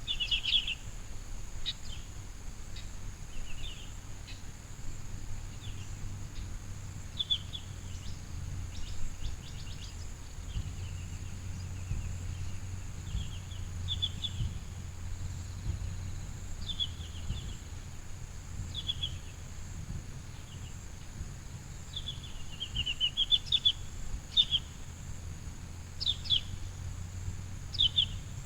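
Small birds chirping outdoors, short calls every second or two with a brief quick run of notes a little past two-thirds of the way through, over a steady high hiss and a low rumble.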